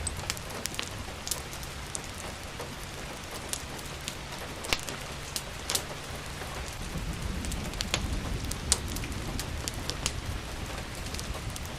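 Steady rain falling, with scattered sharp crackles and pops from a wood fire over it and a low rumble underneath that grows stronger in the second half.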